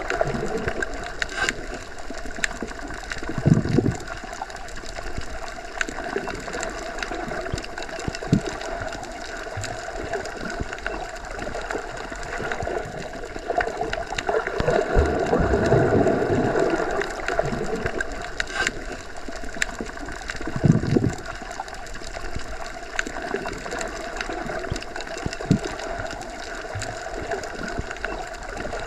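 Underwater ambience heard with the ears submerged: a steady muffled rush with gurgles, a faint steady hum and small clicks. Low swells of water sound come about three seconds in, around the middle and about two-thirds through.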